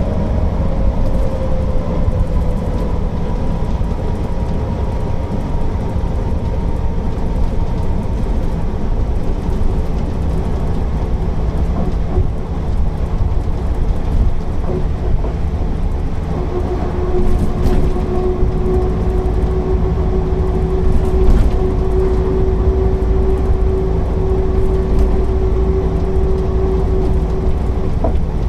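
Mercedes-Benz O408 city bus on the move: a steady low rumble of its six-cylinder diesel and drivetrain, with a whine that falls in pitch over the first few seconds as it slows, and a steady whine that sets in about halfway through.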